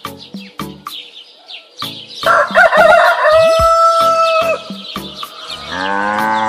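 A rooster crowing once, a loud call of about two seconds ending in a long held note, over background music with a steady beat. Near the end a cow begins to moo, a lower drawn-out call.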